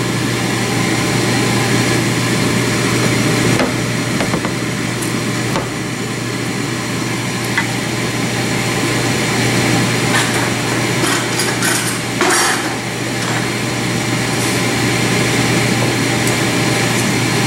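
Kitchen cooking sounds: a spoon knocking and scraping against a pan of vegetables in mushroom sauce several times, with a cluster of clatters about two-thirds of the way in, over a steady hiss and hum.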